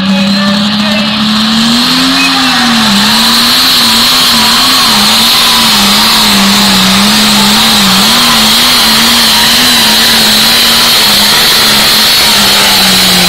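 Case IH 3688 pulling tractor's 504 cubic-inch engine running flat out on a pull, its note wavering up and down as the revs rise and fall under load, with a steady high whine over it. Near the end the engine note begins to drop.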